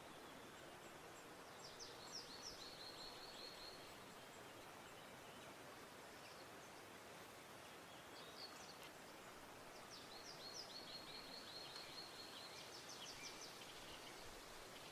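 Quiet outdoor ambience with a small bird singing faintly twice. Each song is a quick run of repeated high notes: the first lasts about two seconds, the second, near the end, about three.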